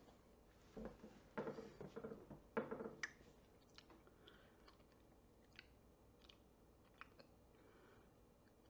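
Faint mouth sounds of a person sucking and chewing on a hard, sticky milk candy, with a few louder wet sounds in the first three seconds, then only scattered small clicks.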